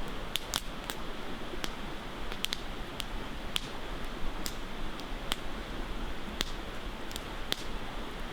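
Campfire crackling: irregular sharp pops and snaps of burning wood, about a dozen, over a steady rushing hiss.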